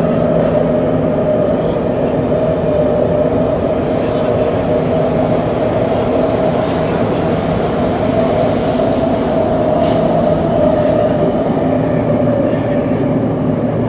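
Tokyo Metro 7000 series subway car with Hitachi IGBT-VVVF traction running at a steady speed through an underground tunnel, a continuous rolling rumble with a steady motor hum. Through the middle stretch a faint high wheel squeal rides over it.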